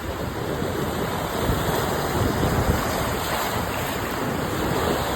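Sea waves washing ashore as a steady rush of surf, with wind buffeting the microphone.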